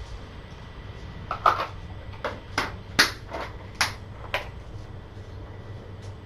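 A run of about eight sharp clicks and light knocks over some three seconds, over a steady low hum.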